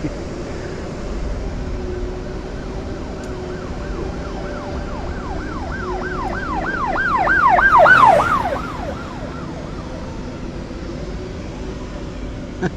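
Emergency vehicle siren in a fast rising-and-falling yelp, about three cycles a second, growing louder and then fading as it passes.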